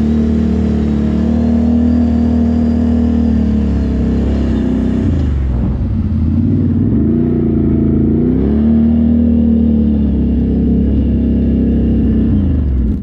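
ATV (quad) engine running under load, its note dipping and rising again in the middle as the throttle is worked, then holding steady.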